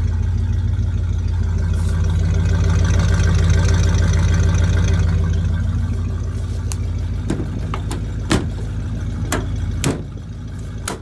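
1988 Chevy R30's 350 V8 running at a steady fast idle, not yet idled down after a cold start on old gas. From about halfway on, a few sharp knocks and clanks of metal junk being handled are heard over it, and the engine sound drops a little near the end.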